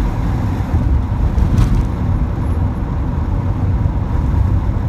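Volkswagen Type 2 camper bus with a newly installed engine still being broken in, running steadily at road speed. It is heard from inside the cab as an even low rumble with road noise.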